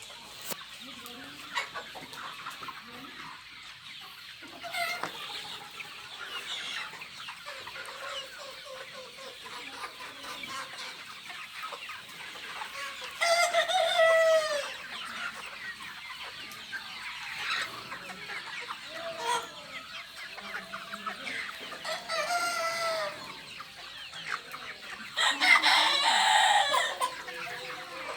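A large flock of Kaveri chickens clucking continuously, with louder drawn-out calls standing out about halfway through and again near the end.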